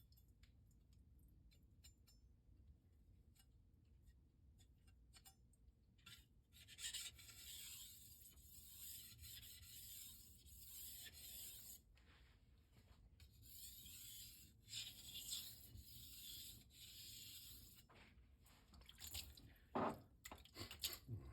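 Knife blade stroked across a Shapton Rockstar 1000-grit whetstone: a faint, hissing scrape in a run of strokes starting about a third of the way in, the finishing passes of the sharpening. A few light clicks near the end.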